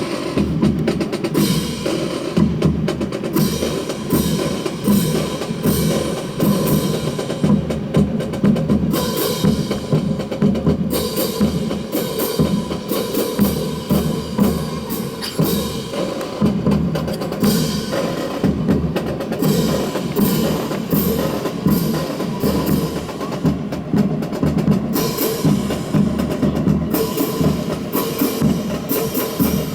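Marching percussion: snare and bass drums beating a steady, driving rhythm of many quick strikes, keeping time for a drill team.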